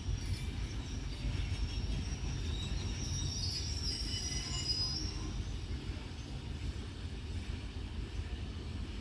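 A long, heavily loaded ore freight train rolling past with a steady low rumble of wagons on the rails. A faint high wheel squeal rises in the middle.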